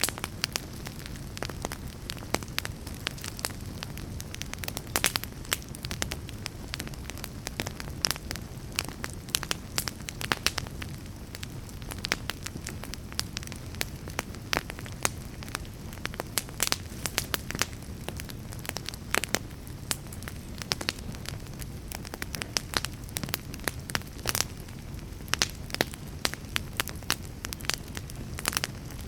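Fire crackling: a steady low rush of flames with frequent, irregular sharp pops and snaps.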